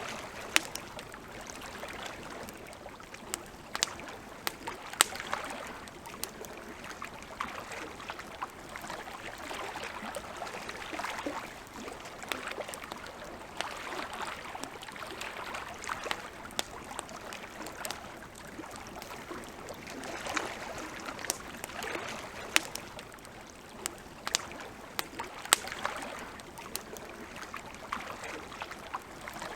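Wood campfire crackling, with frequent sharp pops and snaps scattered over a steady hiss.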